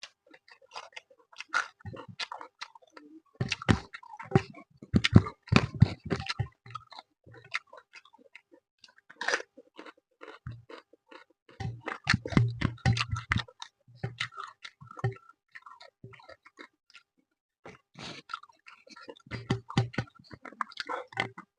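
A person chewing a mouthful of fish and rice close to the microphone: irregular runs of wet mouth clicks and smacks with some crunching, in bursts separated by short pauses.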